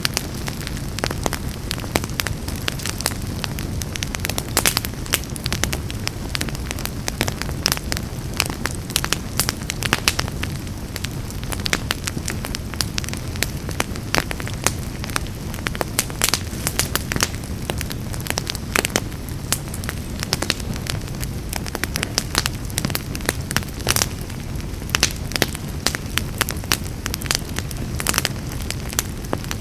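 Wood fire burning in a fireplace: dense, irregular crackles and sharp pops over a steady low rumble.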